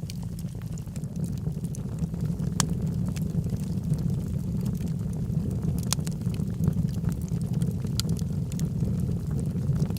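Wood logs burning in a fireplace: a steady low roar of the flames with scattered sharp crackles and pops, a few standing out louder.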